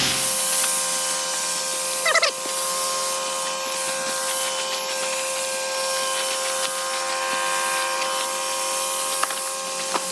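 Water spraying and hissing onto waterproof dry bags in a soak test, over a steady mechanical hum. A brief knock about two seconds in.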